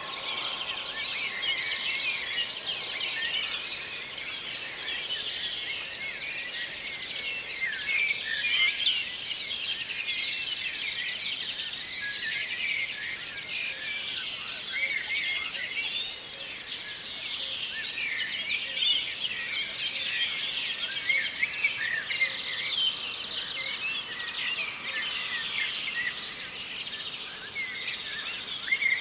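Dawn chorus: many songbirds singing at once in a dense, continuous tangle of high chirps and trills.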